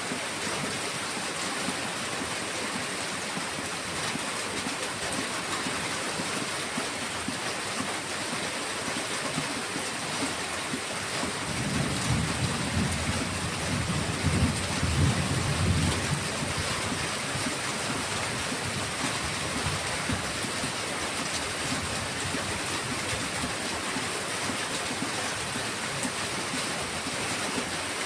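Heavy rain falling with a steady hiss, and a low rumble swelling for about four seconds a little before the middle.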